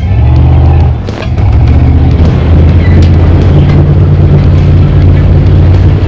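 Small-block Chevy V8 of an off-road competition vehicle running hard under load: a loud, low rumble that dips briefly about a second in, then holds.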